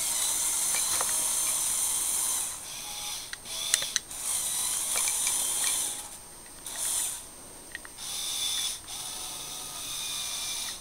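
Small electric Lego motor whirring through plastic gears as the model truck drives, starting and stopping several times, with a few plastic clicks.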